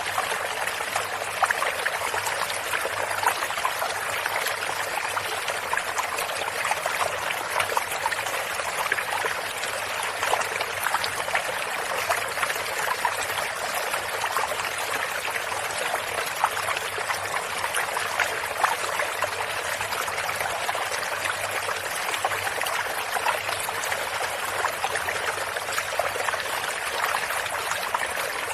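Shallow stream running steadily, the water trickling and splashing over stones.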